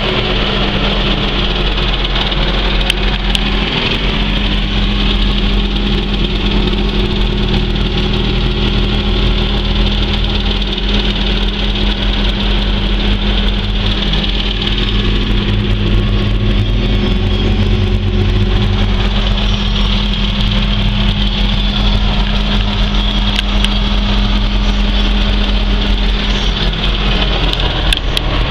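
Case IH 280 Magnum tractor's six-cylinder diesel engine running at a steady idle just after starting.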